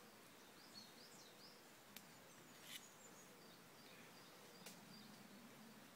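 Quiet outdoor background with birds chirping faintly now and then, and three sharp clicks spread through the middle.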